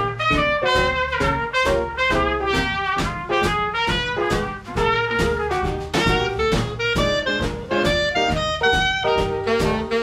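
Small swing band playing an instrumental passage, with trumpet, trombone and saxophone lines over a steady beat.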